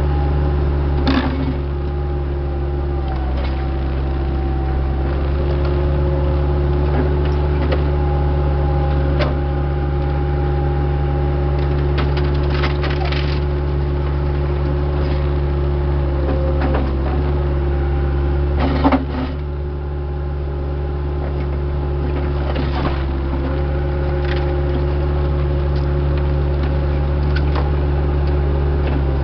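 Diesel engine of a heavy machine running steadily at a constant speed, with a few sharp knocks and clanks from the machine's work.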